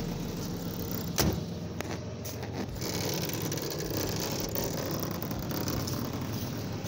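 Car engine idling steadily, a low even hum, with a single sharp click about a second in.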